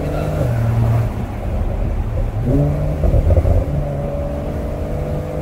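Porsche 911 (992) Cabriolet's twin-turbocharged flat-six running under way, heard from the open-top cabin. The engine note drops about half a second in, jumps up around the middle, then climbs steadily as the car accelerates.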